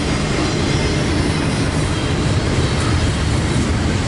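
Freight train cars rolling past close by: a steady, loud rumble of wheels on the rails with clickety-clack.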